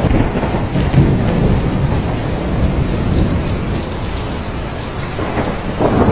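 Thunderstorm: steady heavy rain with rolling thunder rumbling underneath, easing a little midway and swelling again near the end.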